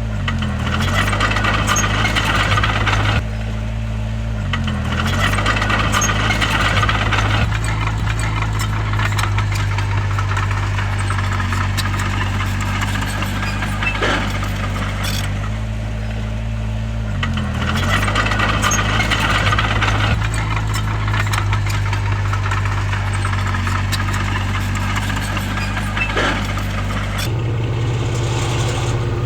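Heavy diesel engine of a crawler bulldozer running steadily, its pitch dipping briefly under load a few times. Several stretches of higher-pitched clatter lie over it, and sharp clicks are scattered throughout.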